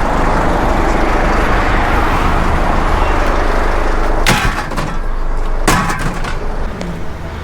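Steady road-traffic rumble and hiss, then two sharp clattering knocks about a second and a half apart as discarded computer monitors are picked up and loaded.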